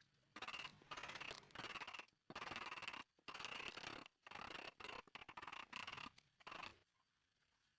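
A hand tool working wood in short scraping strokes, just under two a second with brief gaps between them, which stop about a second before the end.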